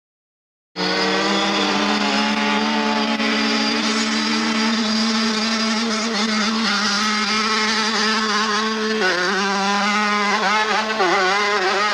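Hillclimb motorcycle engine running at high, steady revs, starting abruptly just under a second in. About three-quarters of the way through, its pitch begins to waver up and down as the throttle and load change.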